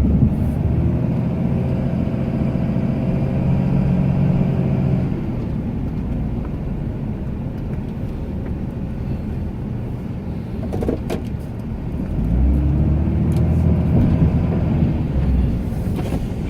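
Ram 2500 pickup's engine working under load while plowing snow: it revs up for about five seconds, drops back to a lower drone, then revs up again near the end. A short click about eleven seconds in.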